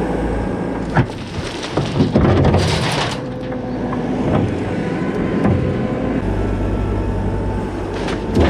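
Skid steer loader's diesel engine running under work, with sharp knocks and clanks about 1 and 2 seconds in, a brief hiss shortly after, and more knocks near the end.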